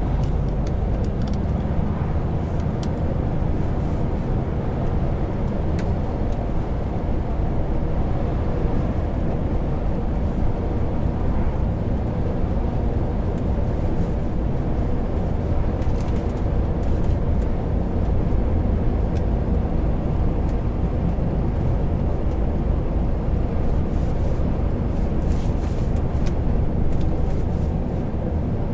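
Heavy truck driving along: steady diesel engine and road noise, low and even, with a few faint clicks here and there.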